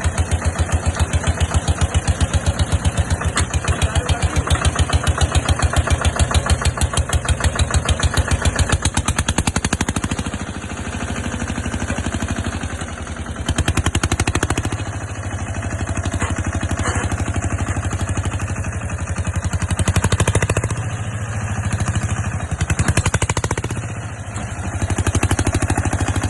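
John Deere tractor's diesel engine running with an even pulsing beat, then its revs surging and dropping several times.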